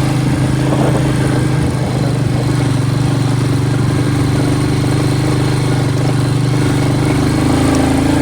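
Royal Enfield Bullet's single-cylinder engine running steadily under way, a loud even engine note with no change in pace.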